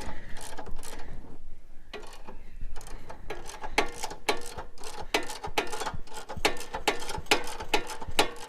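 Motorcycle jack being lowered by a ratchet, clicking in a steady run of about three to four clicks a second after a brief pause near a second and a half in.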